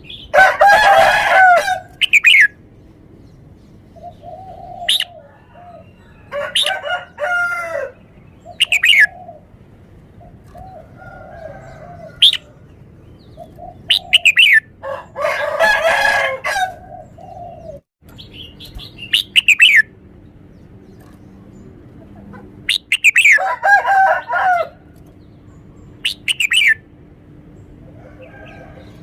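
Red-whiskered bulbul singing: a run of loud, rich song phrases of one to two seconds each, separated by short, sharp downward-slurred whistles and softer notes.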